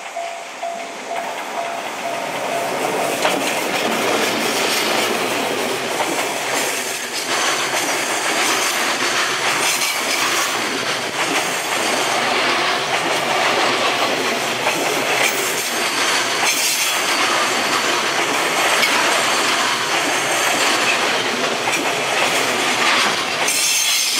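JR Freight container train, hauled by an electric locomotive, passing close by. The sound builds over the first couple of seconds as the locomotive arrives. Then a long run of container wagons rumbles past, with the wheels clattering over the rail joints.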